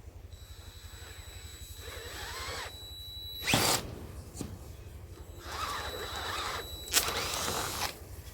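Power drill boring holes through 3-inch PVC pipe for eye bolts: a steady high whine runs for about three seconds, stops with a short loud noise, then runs again for about a second and a half and ends the same way.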